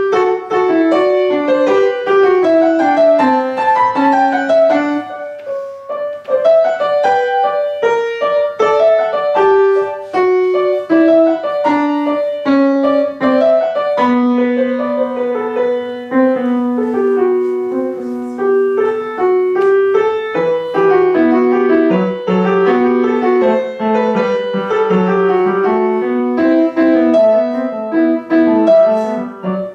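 Piano playing a melodic piece, a tune over a lower accompaniment.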